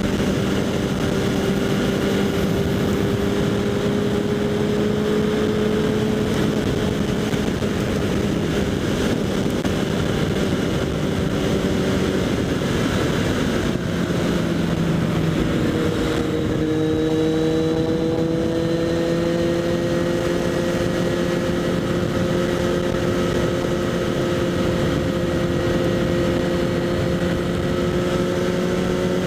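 Kawasaki Z800's inline-four engine through a LeoVince SBK aftermarket exhaust, riding at steady, moderate revs. The revs climb gently, dip about halfway through, then climb slowly again, heard from a helmet-mounted microphone with a steady rush of wind.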